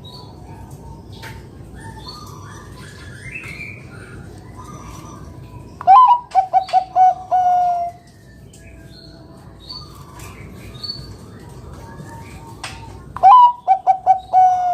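Zebra dove (perkutut) cooing: two loud phrases about seven seconds apart, each a quick run of short coos ending in a longer held note. Faint chirps of other small birds sound between them.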